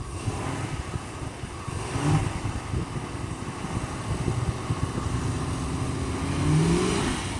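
Dodge Charger R/T AWD's Hemi V8 revving, with a short rise in pitch about two seconds in and a longer climbing rev near the end.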